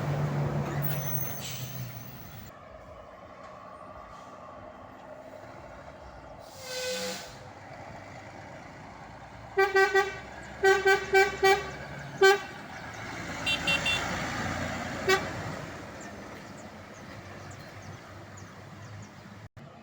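A truck's marine-style air horn blown in quick groups of short toots, about nine blasts in a row partway through, followed by a few fainter, higher toots. A passing vehicle's engine fades out at the start.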